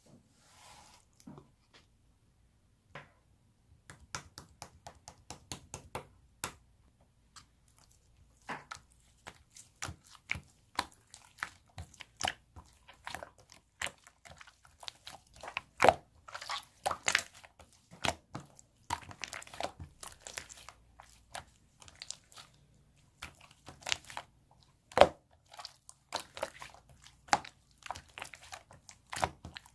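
Soft marbled slime being squished and pressed by hand, giving quick irregular clicks and pops. These are sparse for the first few seconds, then come thick and fast.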